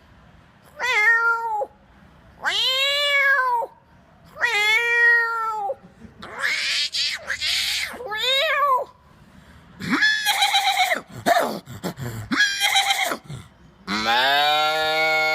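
A man imitating a cat with his voice: a series of separate meows, each about a second long and rising then falling in pitch. Near the end a longer, lower call begins.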